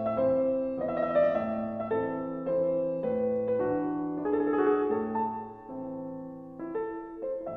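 Background piano music: a calm melody over sustained chords.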